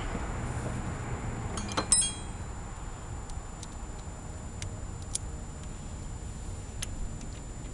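Metal tools and parts being handled, clinking: a few sharp metallic clinks with a brief ring about two seconds in, then scattered light ticks.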